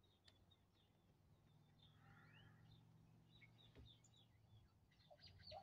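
Near silence with faint bird chirps: scattered single chirps, then a quick run of chirps near the end, over a faint low steady hum.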